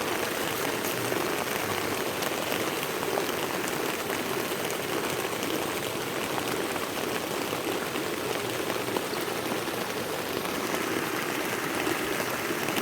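Heavy rain pouring down steadily, a dense even hiss flecked with countless small drop hits.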